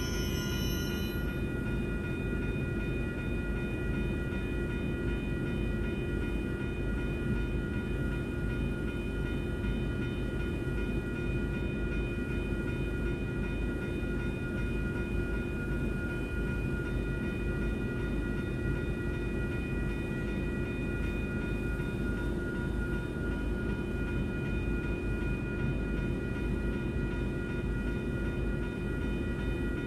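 Low, steady rumble of a Union Pacific freight train's diesel locomotives while the train stands at the crossing. A steady high ringing from the crossing's electronic bells sounds over it.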